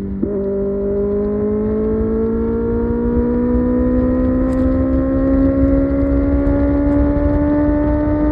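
Kawasaki ZX-6R's 636 cc inline-four engine pulling under steady acceleration. Its note dips briefly with a click just after the start, as on a gear change, then rises slowly and evenly in pitch, over a steady rush of wind.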